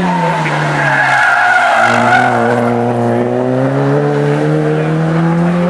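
Rally car engine dropping in pitch as it slows into a corner, then revving up steadily as it accelerates away, with tyres squealing briefly about a second in.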